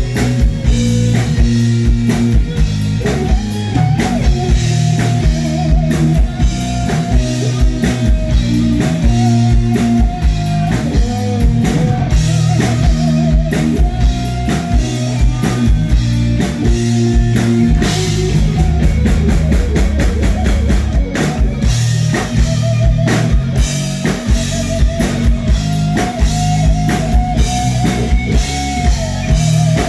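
Live rock band playing: a steady drum-kit beat and electric guitar, with a held, wavering lead melody line over low sustained notes.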